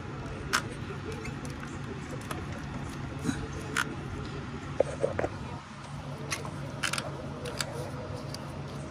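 Scattered light clicks and taps of hands and tools working plastic hose fittings and engine parts, over a steady low hum.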